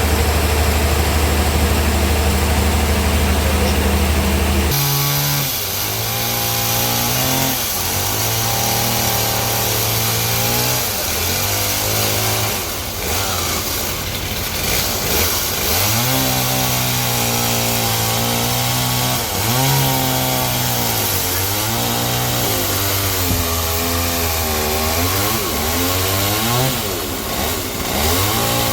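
A steady low engine hum for the first few seconds, then abruptly a saw's engine running under cutting load, its pitch repeatedly dropping and recovering as the blade works through the wood.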